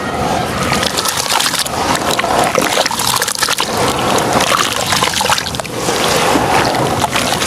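Crunchy sand-and-cement shapes being crushed and mashed in water in a tub: a continuous wet crunching and sloshing, thick with small crackles.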